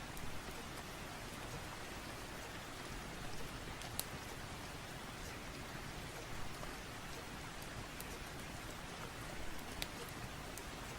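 Steady rain ambience, an even hiss of rainfall, with a few sharp clicks scattered through it.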